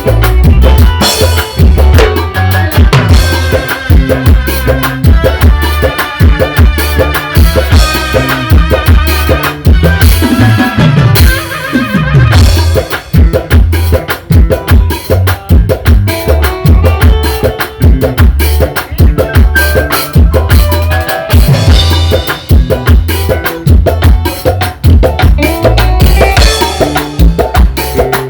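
Loud, upbeat band music led by a drum kit keeping a steady beat, with melodic lines over it and a falling pitch glide about ten seconds in.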